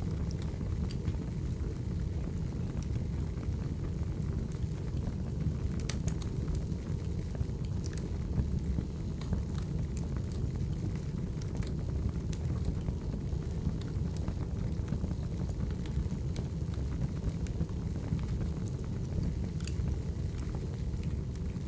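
Crackling wood fire: a steady low rumble of flames with scattered small crackles and pops, and a couple of sharper snaps about a third of the way in.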